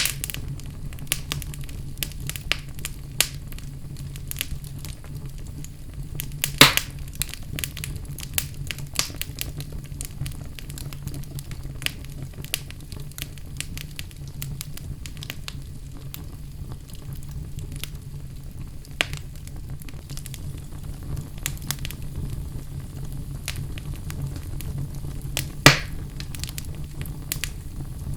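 Fire burning in a fireplace: a steady low rumble with constant small crackles, and two louder pops, one about a quarter of the way in and one near the end.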